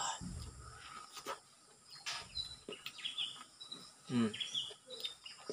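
Birds chirping repeatedly in short high notes, with a few soft mouth noises of someone eating soft soursop pulp, the loudest right at the start and about four seconds in.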